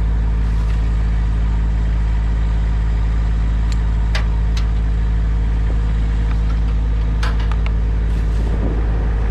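An engine idling steadily, with a few sharp clicks or knocks about four and seven seconds in.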